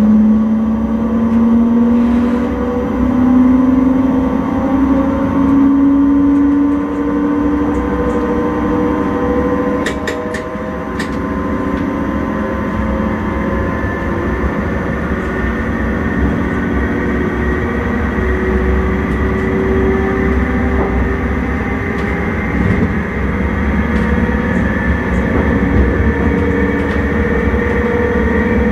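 Electric intercity train heard from the driver's cab, its traction motors whining with a pitch that rises through the first several seconds as the train speeds up, then holds steady over the rumble of running on the rails. A few sharp clicks come about ten seconds in.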